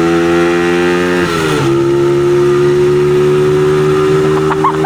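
Dirt bike engine running hard at high revs, its pitch creeping upward, with a brief drop about a second and a half in as it shifts up a gear before climbing again. The bike is pulling without much power.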